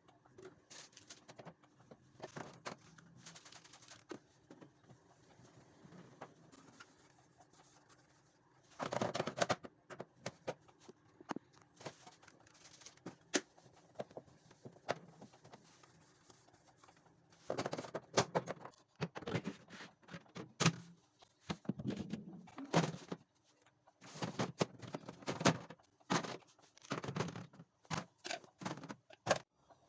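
Irregular clicking and knocking of objects being handled, sparse at first and then in denser clusters of a second or two.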